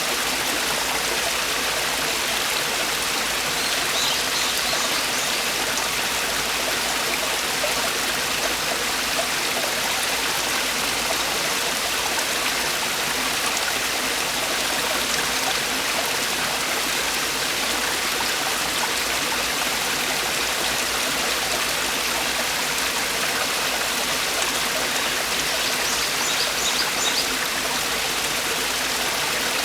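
Mountain stream water falling over rocks in a valley, a steady, even rush. Twice, about four seconds in and again near the end, a brief faint high chirping sounds over it.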